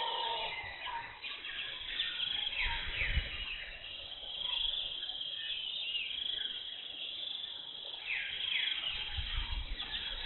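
Tropical forest ambience: birds calling over a steady high chorus of birds and insects, with quick runs of falling whistled notes twice. Low rumbles come in twice.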